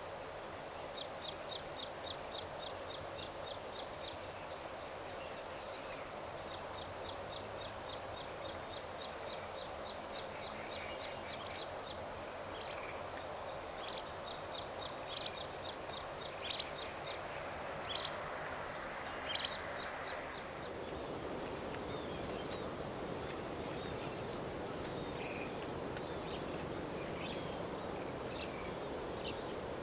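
Evening paddy-field ambience: a steady high-pitched chorus of crickets and other insects, with a pulsing insect trill and rapid chirping calls that stop about two-thirds through. Three louder bird calls stand out a little after halfway.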